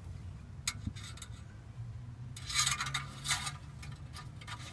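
Engine oil dipstick being handled: a light click, then about a second of scraping and rubbing, over a steady low hum.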